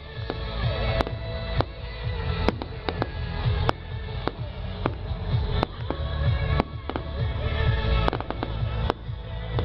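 Fireworks display: aerial shells bursting with sharp bangs about once a second, irregularly spaced. Music plays throughout underneath.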